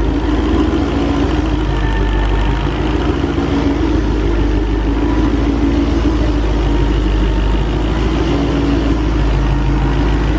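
Freshly swapped-in, VMP Odin–supercharged 5.2-litre Ford V8 in a Mustang GT idling steadily after its first start.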